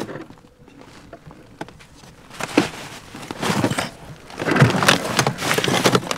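Footsteps crunching through crusted, thaw-packed snow. Faint at first, the crunching grows louder and heavier after about two and a half seconds as the walker breaks through the snow.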